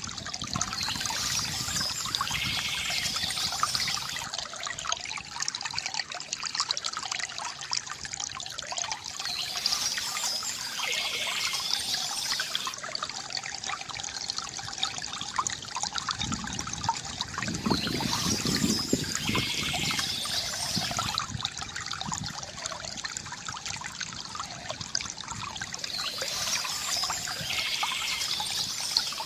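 Water trickling and gurgling from a bamboo fountain spout, a steady pour that swells brighter and splashier about every eight or nine seconds.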